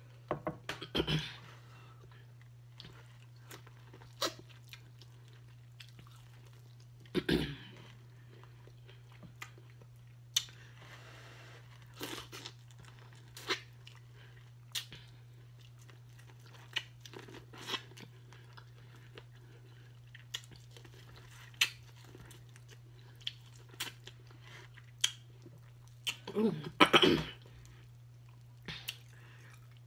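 Close-miked biting and chewing of boiled corn on the cob coated in seafood-boil sauce: irregular crisp crunches and wet mouth sounds, with louder bites about a second in, around seven seconds and near the end. A steady low hum runs underneath.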